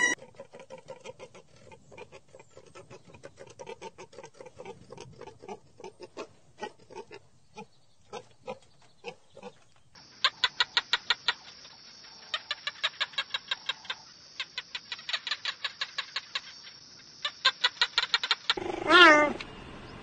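A string of animal sounds. First, about ten seconds of soft irregular clicks and short calls. Then fast rhythmic chirping over a steady high-pitched buzz. Near the end comes a loud cheetah call with a wavering pitch.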